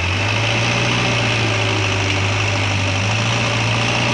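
A truck engine idling steadily with a low, even drone.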